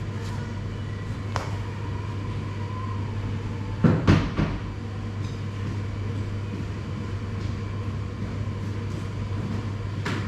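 Steady low mechanical hum with a loud, short clatter of a few quick knocks about four seconds in.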